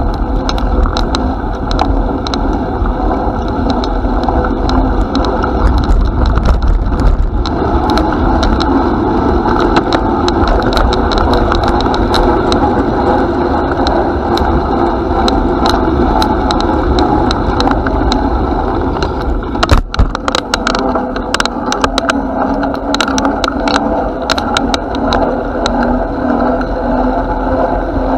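Noise of a bicycle being ridden, heard from on the bike: steady wind buffeting and rolling rumble, with frequent small clicks and rattles, busier in the last third.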